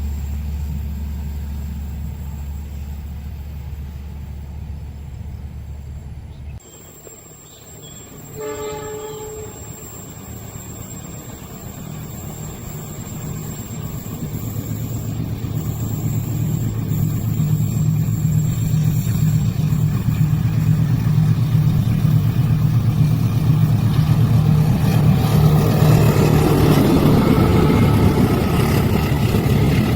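A steady low engine rumble that cuts off about six seconds in, then a short horn toot. After that a train's diesel locomotive engine grows steadily louder as it approaches.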